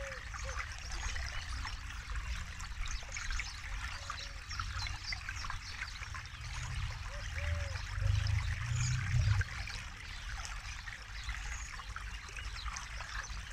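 Forest river running steadily over rocks, a busy babble of small splashes and trickles with a low rush beneath. The deeper rush swells louder for a moment about eight seconds in.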